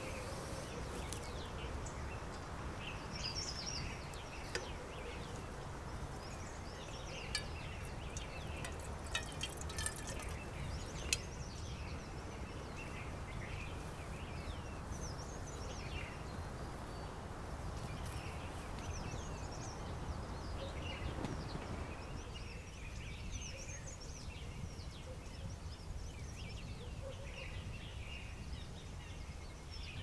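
Small birds chirping and calling again and again, over a steady hiss that cuts off about two-thirds of the way through. A few sharp clicks come in the first third.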